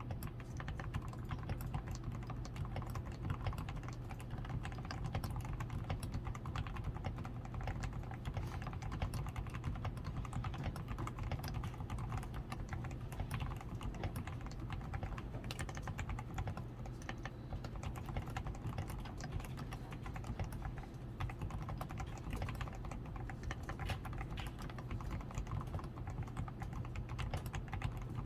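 Continuous typing on a DAREU A87 Pro mechanical keyboard. It is fully lubed with Krytox 105, with lubed stabilizers, a tape-modded PCB, foam-reinforced switches and XDA keycaps. Keystrokes come in a dense, unbroken run of clicks over a steady low hum.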